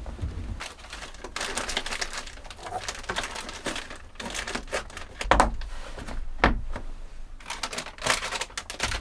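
Crinkling and rustling handling noises made of quick clicks, with three louder knocks in the second half.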